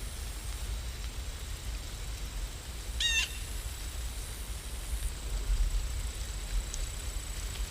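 A bird calls once about three seconds in, a short run of quick chirping notes, over a steady low background rumble.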